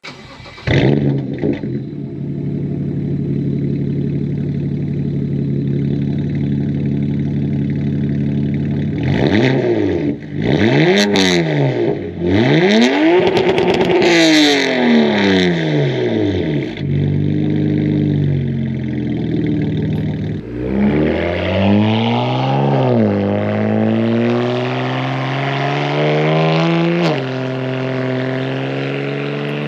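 2009 BMW 335xi's twin-turbo inline-six (N54), with catless downpipes and the resonator and muffler deleted, running steadily, then blipped through several quick free revs. It then climbs in revs under acceleration, with a sharp drop in pitch near the end before it climbs again.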